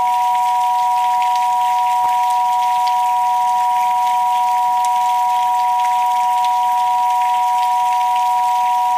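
Two steady pure sine tones sounding together, one a little higher than the other, held unchanged over a bed of rain pattering.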